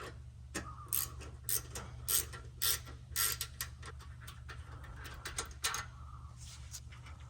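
Ratchet wrench backing out 10 mm bolts on an exhaust hanger: sharp clicks about two a second, then a quicker run of lighter clicking about four and a half seconds in, over a steady low hum.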